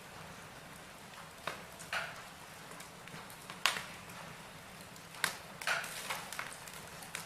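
Wood fire burning in a fireplace: a steady low hiss with irregular crackles and sharp pops of burning logs, the loudest snaps a little past halfway through.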